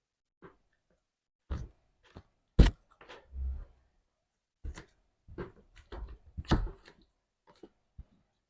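Slime being squeezed and poked: irregular short sticky pops and clicks with a soft thud, several close together in the second half.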